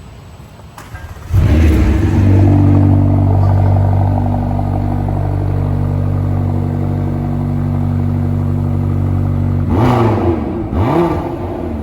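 A car engine starts suddenly about a second in and runs at a steady idle, then is revved twice in quick succession near the end, each rev rising and falling in pitch.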